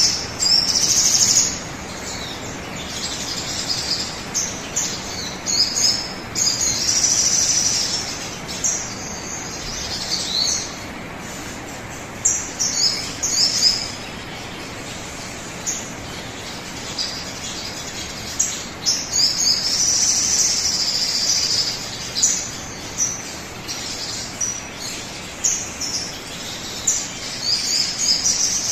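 Sogon bird song used as a lure recording: repeated bursts of high-pitched chirps and trills, some phrases held for a second or two, over a steady background hiss.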